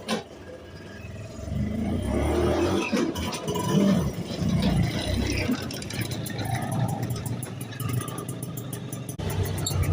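Engine of a 1967 Piaggio Ape AD1 500 three-wheeler, a small single-cylinder two-stroke, running unevenly with the revs rising and falling during a test run. About nine seconds in it settles into a steadier run.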